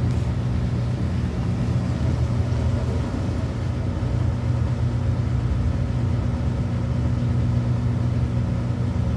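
Maytag Bravo washer's drain pump running, a steady low hum.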